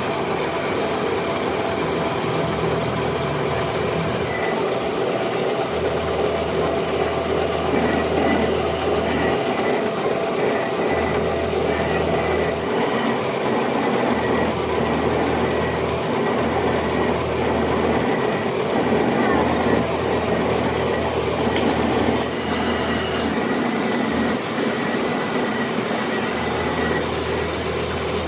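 Metal lathe running while it cuts a cast iron V-belt pulley: a steady mechanical drone with a faint thin high whine from the cut for much of the time.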